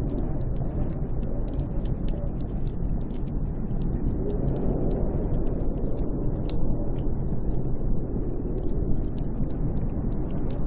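Steady, deep rush of snowstorm wind, with many small sharp crackles scattered over it.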